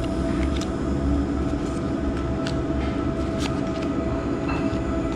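A steady low rumble with a constant hum running through it, and a few short, sharp clicks over the top.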